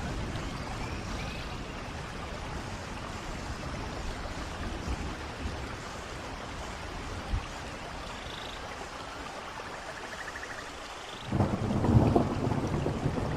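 Steady rain with running water, with a short thump about seven seconds in. Near the end a louder rumble of thunder sets in suddenly.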